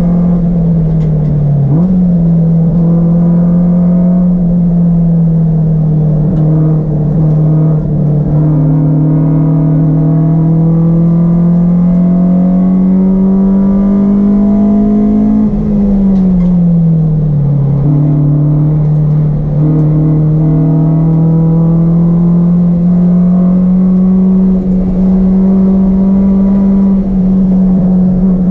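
Honda Civic's swapped-in Honda H-series four-cylinder engine running hard on a race track, its pitch climbing slowly under load. The pitch dips briefly about two seconds in, then falls in a longer glide around the middle as the revs come down, before steadying and climbing again.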